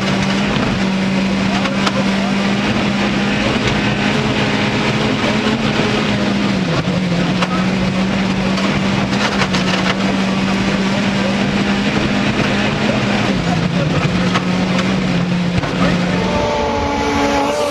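An engine drones at a steady pitch over loud, rushing noise, with two brief dips in pitch. Near the end the drone changes and higher tones come in.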